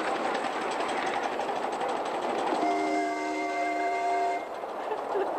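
A miniature ride-on train running along its track with a steady rumbling clatter. About halfway in, a train whistle sounds one steady chord of several notes for under two seconds, then cuts off.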